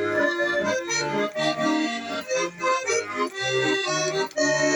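Accordion playing a tuneful instrumental introduction, melody over rhythmic bass-and-chord accompaniment.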